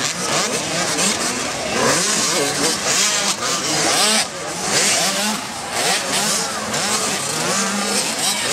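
Several motocross bikes racing on a dirt track, their engines revving up and down, the rising and falling pitches of different bikes overlapping.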